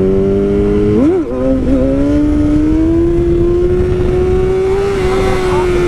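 A sportbike engine under hard acceleration. The note climbs, drops sharply at an upshift about a second in, then rises again and levels off, with wind rush over it.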